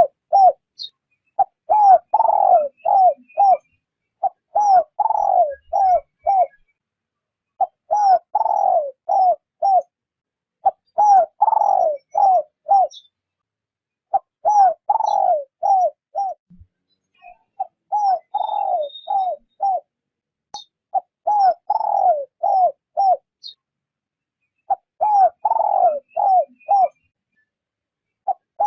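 A decoy spotted dove cooing its 'rút bổi' call over and over: each phrase is a quick run of five or six short coos with one longer, falling coo near the middle, repeated about every three seconds. Faint high chirps of small birds sound in between.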